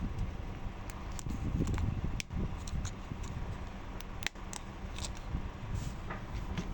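Scattered light clicks and handling noises from small parts of a car key remote being worked on by hand, over a steady low hum.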